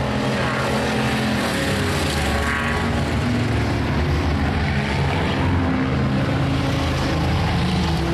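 Several race cars running hard around an oval track, a steady loud blend of engines at high revs, their pitches shifting as the cars pass.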